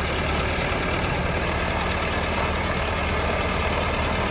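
Heavy diesel engine of a farm machine running steadily at a constant speed.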